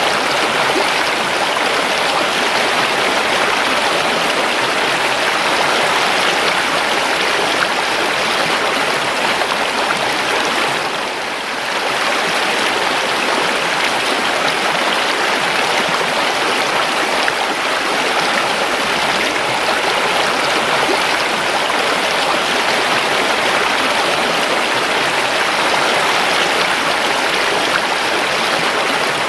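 River water flowing steadily, a continuous rushing with a brief dip in level about eleven seconds in.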